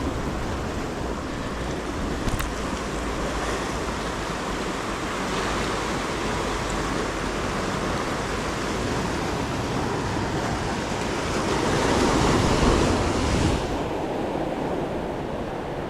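Ocean waves washing against the shoreline, with wind buffeting the microphone. A wave surges louder for a couple of seconds in the latter part.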